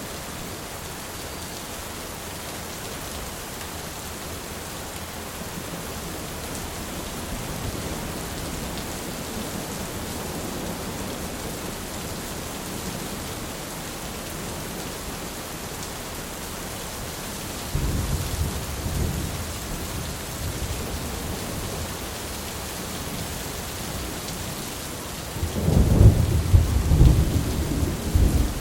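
Steady rain falling, with thunder rumbling: a low rumble about two-thirds of the way through and a louder, closer peal near the end.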